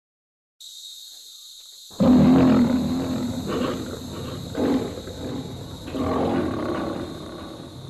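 A lion roaring: one loud, deep roar begins about two seconds in, then comes a series of shorter roars that slowly fade. A steady, high insect drone runs beneath it, starting shortly before the roar.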